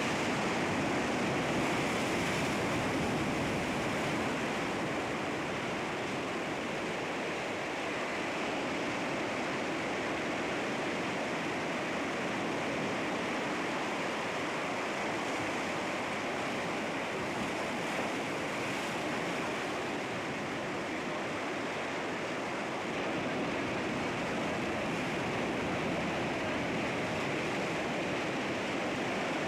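Sea waves breaking and washing against rocks, a steady rush of surf that swells and eases gently.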